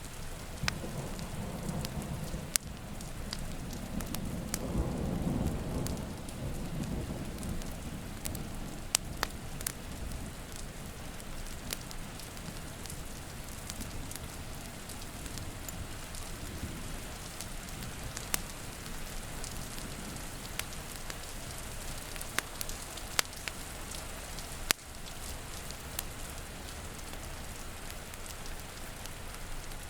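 Steady rain with a low roll of thunder over the first several seconds, loudest about five seconds in and then fading. Scattered sharp pops and crackles of a wood fire sound throughout.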